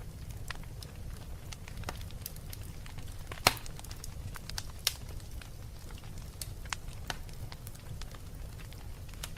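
Wood fire burning in a fireplace: a low steady rumble of flames with irregular crackles and pops, the loudest pop about three and a half seconds in and another sharp one near five seconds.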